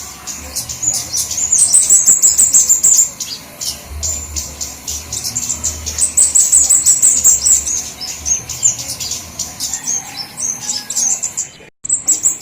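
Flowerpeckers calling: a dense chatter of rapid, very high-pitched ticks and chirps from several birds at once, coming in loud bursts. This is an agitated lure recording used to draw flowerpeckers in, and it breaks off for an instant near the end.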